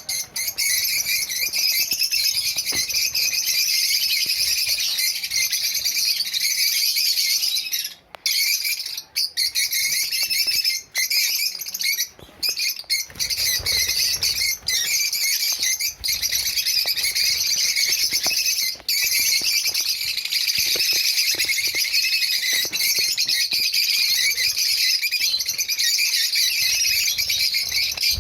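A flock of kept small birds chirping and chattering continuously in a dense, high-pitched din, with a few brief breaks about a third of the way in.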